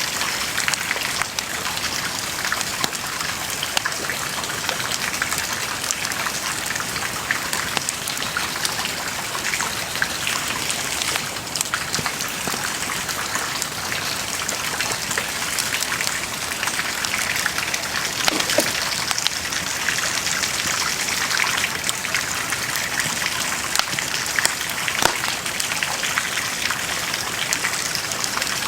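Wood bonfire burning, a steady crackle and hiss with many small snaps and a few louder pops.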